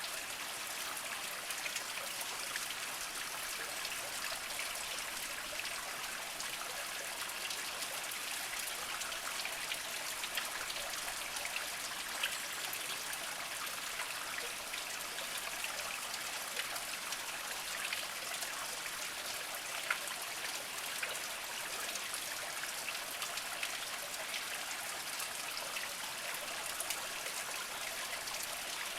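A small mountain spring trickling slowly over mossy rocks: a steady light trickle with scattered drips, a few of them louder.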